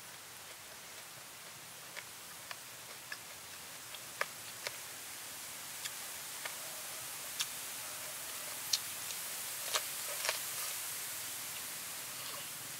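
A person eating pickled chicken feet: scattered sharp clicks and smacks of biting and chewing at irregular intervals, over a steady high hiss.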